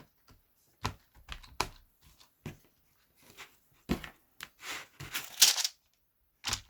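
Plastic parts of a disassembled computer keyboard clicking and clacking as they are handled and fitted back together: scattered sharp clicks, with a longer scraping rattle about five seconds in.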